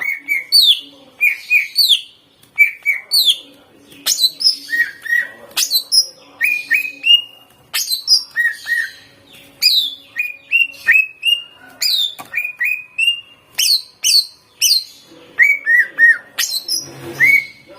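Cucak ijo (green leafbird) singing a fast, continuous song of short whistled chirps and down-slurred notes in quick repeated phrases. The song is filled with mimicked phrases of other birds (isian).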